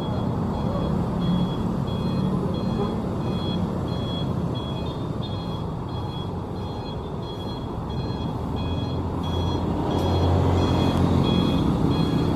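Truck reversing alarm beeping in an even, steady series, roughly every two-thirds of a second, over the truck's engine running. The engine grows louder near the end.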